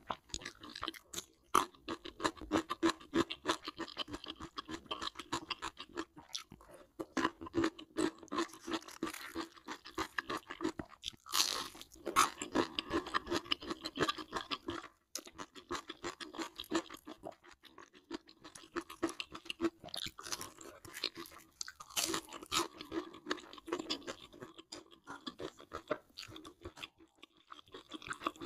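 Close-up eating sounds: wet chewing and crisp crunching of breaded fried chicken and pickles, a dense run of crackly bites with a short lull about halfway through.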